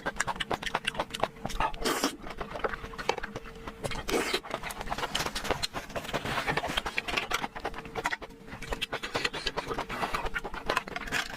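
Close-up eating sounds: wet chewing and mouth noises with many quick small clicks, and two longer noisy bursts about two and four seconds in.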